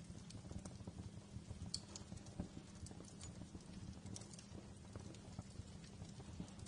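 Wood fire in a fireplace crackling: frequent irregular sharp pops and snaps over a steady low rumble of burning flames.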